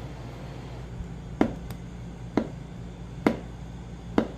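Four sharp knocks about a second apart, over a low steady hum.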